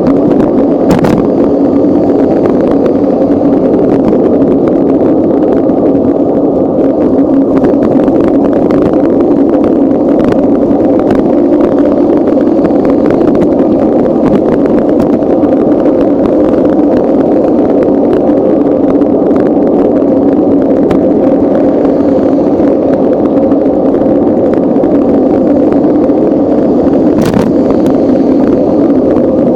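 Steady, loud rumble of wind and riding noise on the camera's microphone while a bicycle is ridden, with two short sharp clicks, one about a second in and one near the end.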